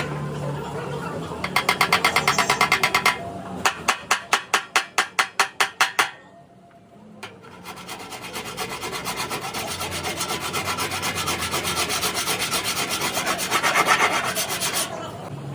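Hand filing or sanding on a car body panel: quick, even back-and-forth strokes in two runs, a short pause, then a longer run of denser rubbing.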